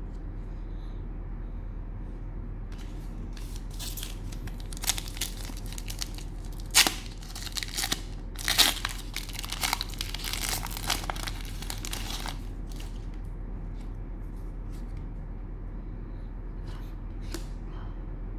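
Cellophane wrapper of a trading-card cello pack being torn open and crinkled, in a burst of crackles lasting several seconds, followed by a few light ticks and rustles. A steady low hum sits underneath.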